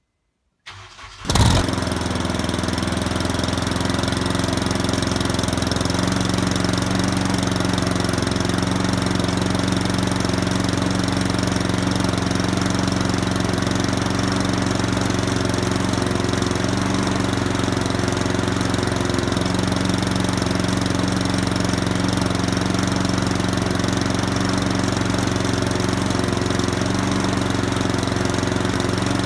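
Cold start of an EP3 Honda Civic Type R's K20A2 2.0-litre four-cylinder engine, heard at the tailpipe. The starter cranks briefly about a second in, the engine catches with a loud burst, then it settles into a steady idle.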